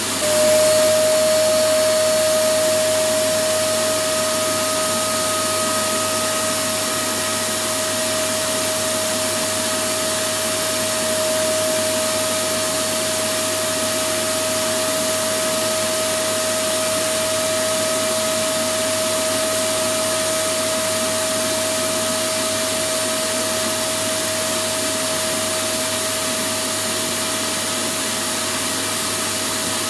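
Electric vacuum cleaner running steadily: a continuous rushing of air with a constant motor whine that grows a little stronger just after the start.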